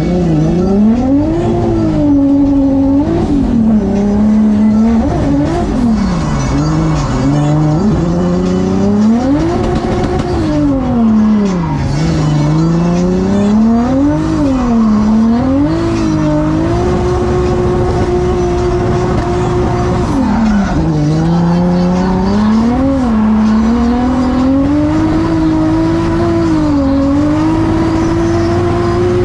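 Drift car engine revving hard, the pitch climbing and dropping over and over with shifts and throttle lifts, twice held high for several seconds, with tyre squeal under it.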